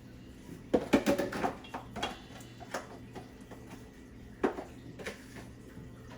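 Kitchenware knocking and clattering during food preparation: a quick cluster of knocks about a second in, then single knocks, over a low steady hum.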